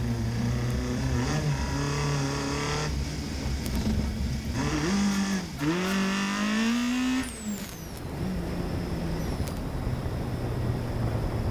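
Rally car engine heard from inside the cabin, running at a steady note at first. About halfway through it accelerates, its pitch rising with a brief dip, as at a gear change, then it settles back to a lower, steady note.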